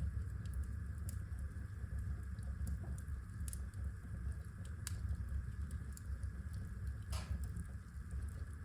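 Wood fire burning in a fireplace: a steady low rumble with scattered sharp crackles, and one louder, longer pop about seven seconds in.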